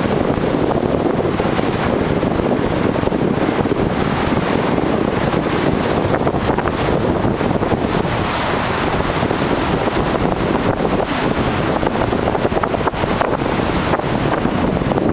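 Storm waves on Lake Michigan breaking and washing ashore in a loud, continuous rush, with strong wind buffeting the microphone.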